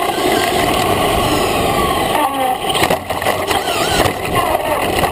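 Brushless electric motor of an RC trophy truck whining as it drives, its pitch rising and falling with the throttle, over a rough rush of tyre and ground noise. A few sharp knocks come about three seconds in.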